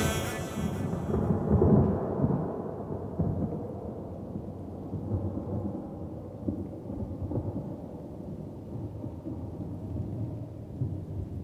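Thunderstorm sound effect: low rolling thunder with rain. The song's last notes die away at the start.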